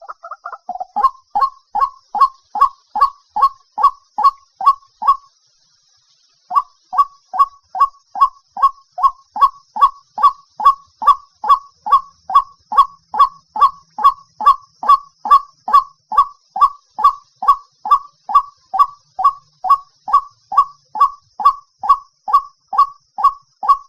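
White-breasted waterhen calling a repeated loud 'wak' note, about two calls a second, with a break of about a second some five seconds in before the rhythm resumes; a lure call used to draw the birds in.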